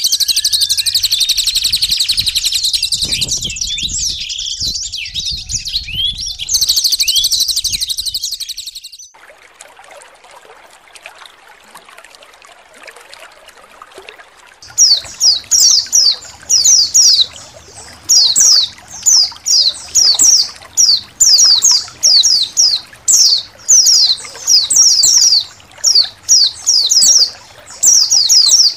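White-eyes (pleci) twittering in a dense, high-pitched colony chorus for about nine seconds, then a quieter stretch of faint trickling water. From about halfway, quick high chirps that fall in pitch come in repeated short bursts.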